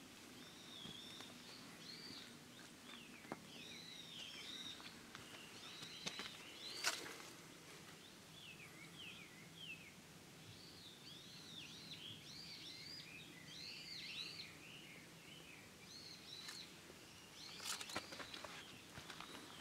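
Small birds calling, with short arched chirps repeated throughout and faint against quiet rural background noise. A sharp click comes about seven seconds in, and footsteps start near the end.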